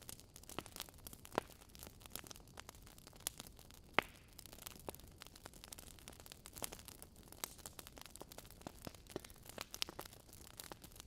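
Wood fire crackling in a fireplace: a steady scatter of small, irregular pops and snaps, with one sharper pop about four seconds in.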